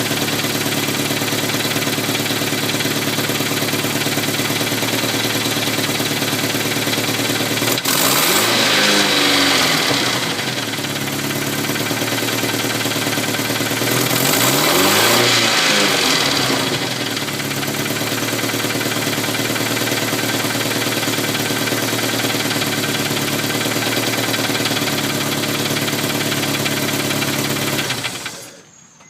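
Turbocharged Honda S2000 (AP1) 2.0-litre four-cylinder engine idling steadily with the weird tick it is known to have. It is blipped twice, rising and falling in pitch, then shut off near the end.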